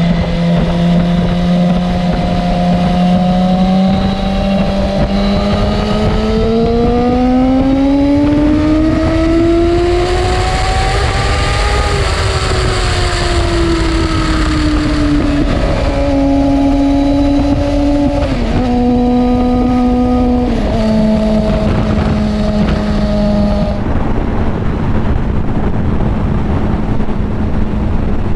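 Suzuki GSX-R750 inline-four engine under way: it holds steady, then the revs climb smoothly for about eight seconds and ease back down, then the pitch drops in three steps as it changes up through the gears, settling to a steady lower note for the last few seconds.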